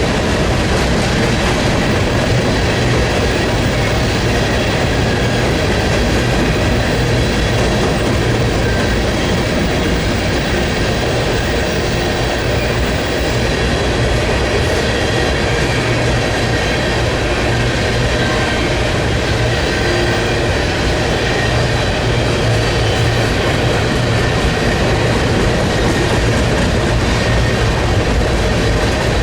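Freight train rolling past, its cars running steadily over the rails with no horn or break in the sound.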